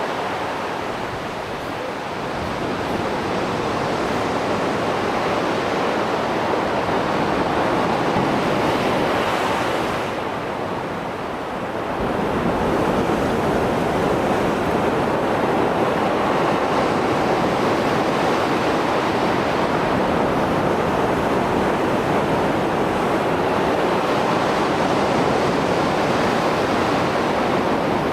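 Mediterranean Sea waves breaking and washing on the shore, a heavy swell after a storm: a steady wash with brief lulls between sets, swelling again about a third of the way through and staying full after that.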